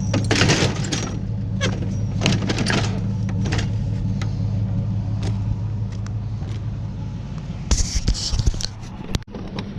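A vehicle engine idling with a steady low hum, while scrap is handled with repeated short clanks and rattles. The sound drops out abruptly about nine seconds in.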